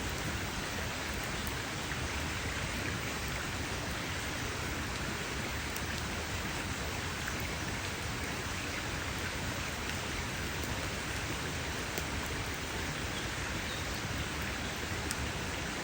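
Wood campfire burning: a steady dense crackle and hiss, with a few sharper pops standing out.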